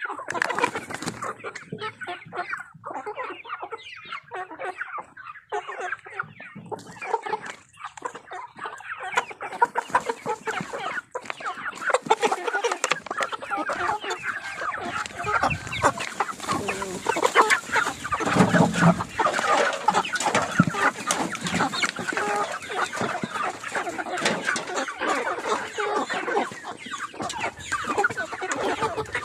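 A flock of domestic chickens clucking, with many short calls overlapping, growing busier and louder about a third of the way in.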